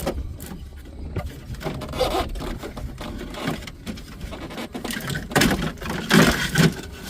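Wiring harnesses and plastic dash parts being handled inside a car's dashboard: irregular scraping, rubbing and clicks, loudest between about five and a half and six and a half seconds in.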